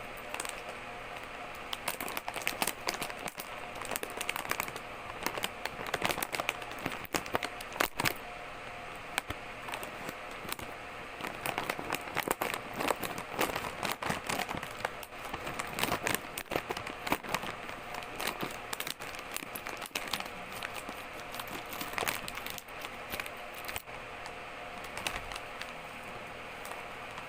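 Irregular crisp crackling and crinkling from Cheez-It crackers and their packet, over a steady background hiss.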